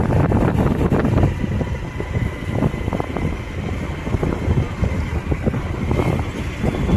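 Wind buffeting the microphone over a steady vehicle drone, as when recording from a moving vehicle.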